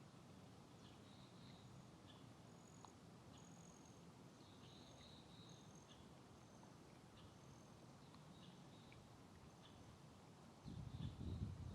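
Gentle rain on a pond: a faint steady hiss, with small high chirps and short thin peeps repeating throughout. About a second before the end a louder low buffeting noise comes in.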